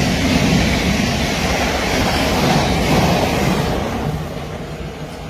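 Electric multiple-unit passenger train running past on the line, a loud rushing rumble that dies down about four seconds in.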